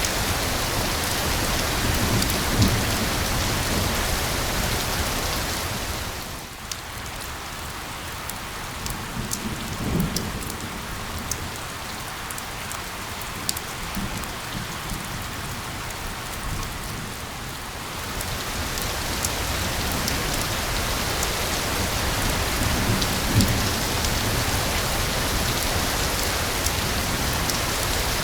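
Steady rain falling on a surface. From about six seconds in it eases to a lighter patter with distinct drops, then returns to the full, dense rain sound about eighteen seconds in. There are a few low rumbles in the background.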